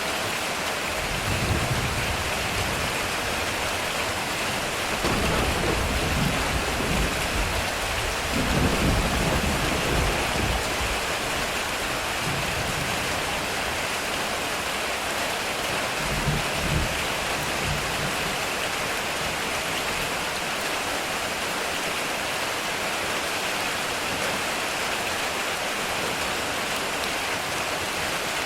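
Heavy rain falling steadily on a metal roof, with thunder rumbling low several times: a long roll about five to eleven seconds in and a shorter one a little past the middle.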